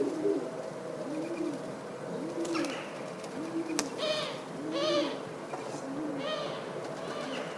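Pigeons cooing: a run of low, arched coos about once a second, with higher calls from other birds over them and a single sharp click about halfway through.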